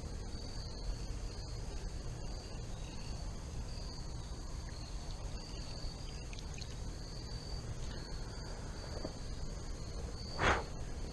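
Insects, likely crickets, chirping in a steady rhythm of short high-pitched pulses, about one and a half a second, over a steady low rush. One brief, louder sound stands out near the end.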